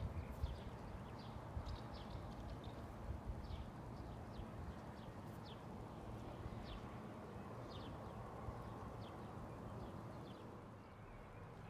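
Outdoor ambience: a steady low rumble with scattered short, high chirps repeating every second or so, and a few low thumps at the very start.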